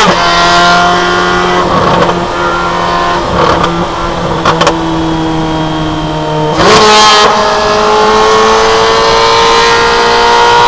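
Chevrolet Corvette C8 Z06's flat-plane-crank 5.5-litre V8 through a valved titanium exhaust while driving: the engine note drops at the start as it shifts up and holds steady, with a few sharp cracks around the middle. About six and a half seconds in the revs jump suddenly, then the note climbs steadily as the car accelerates.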